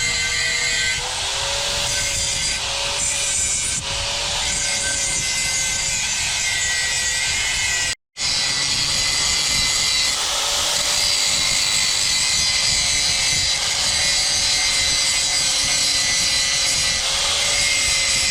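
Electric power tool running steadily against a workpiece, a motor whine under a rasping scrape, cut off for an instant about eight seconds in, then running on.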